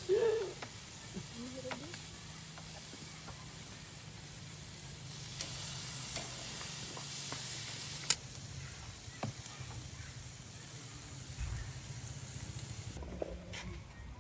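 Food sizzling and frying in a pot over a fire, with occasional clicks and knocks of stirring. The sizzling cuts off suddenly near the end.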